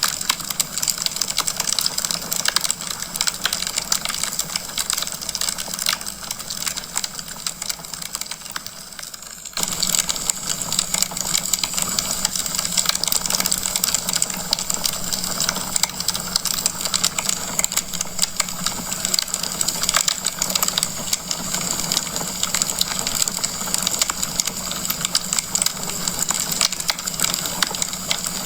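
Wood fire of burning logs crackling, a dense patter of small crackles over a steady hiss. About a third of the way in the sound jumps abruptly louder and stays at that level.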